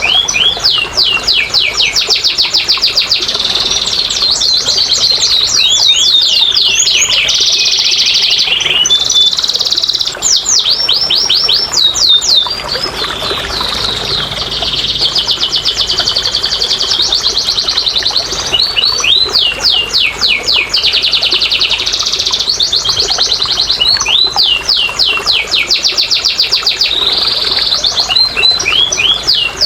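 Domestic canary singing a near-continuous song of rapid trills and quickly repeated sweeping notes, phrase following phrase with hardly a pause. This is a lure song played to prompt a quiet canary into singing.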